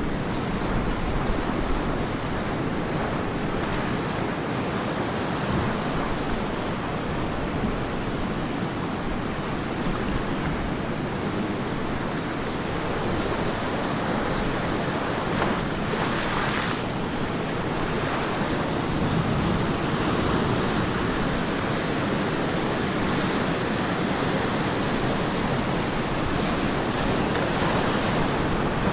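Ocean waves breaking and washing up on a beach in a steady surf roar, with wind buffeting the microphone. A wave swells briefly louder about sixteen seconds in.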